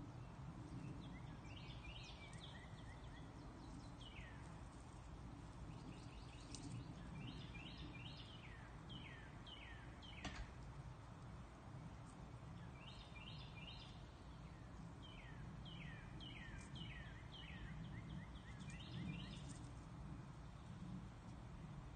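Faint outdoor background with a songbird singing several phrases of quick, falling whistled notes. A single sharp click comes about halfway through.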